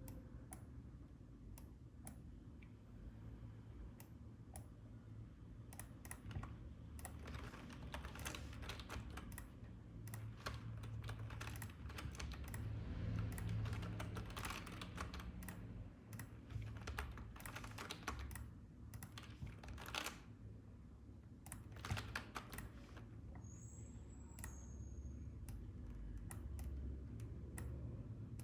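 Clicking and tapping on a computer keyboard and mouse, coming irregularly and in quick clusters, over a steady low hum.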